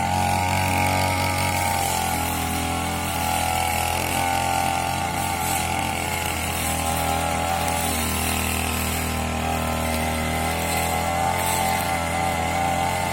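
Petrol brush cutter engine running steadily at high speed, its pitch holding almost level throughout.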